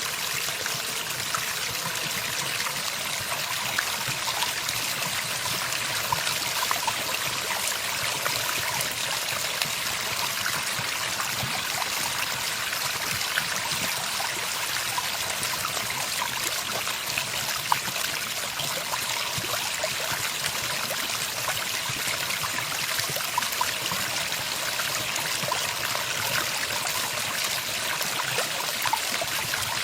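Running water flowing and trickling steadily, with no birdsong.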